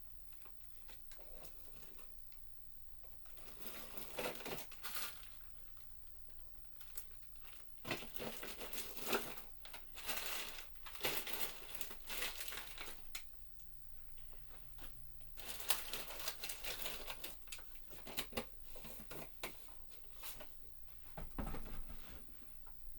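Rummaging by hand: irregular rustling and crinkling as things are handled and pushed aside in a search for a piece of string. It starts a few seconds in and comes in uneven bursts.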